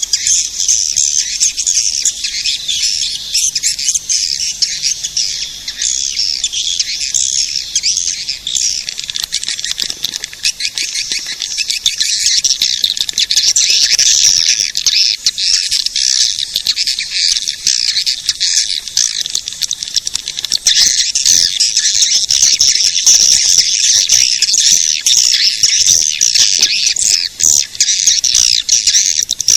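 Swiftlet caller recording: a dense, continuous twittering of many high chirps of edible-nest swiftlets, the call played from speakers to lure swiftlets into a nesting house.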